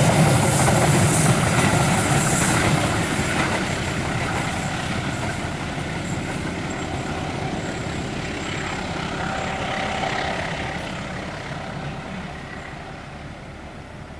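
A long train rolling past and moving away, the noise of its wheels on the rails fading steadily.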